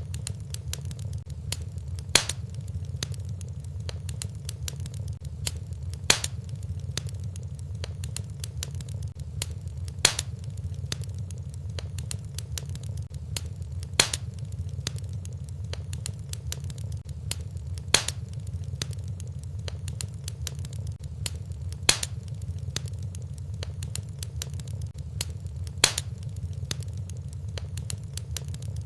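Wood fire in a fireplace crackling over a steady low rumble, with a sharp pop almost exactly every four seconds. The pops repeat so evenly that the sound is a looped fire recording.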